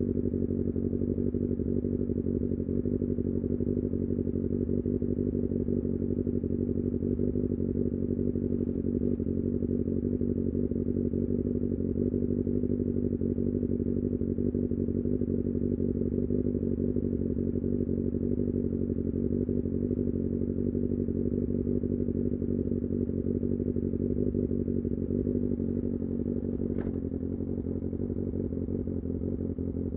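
Kawasaki Ninja ZX6R's inline-four engine running at a steady, unchanging engine speed while riding. Near the end there is a brief click and the engine sound drops slightly.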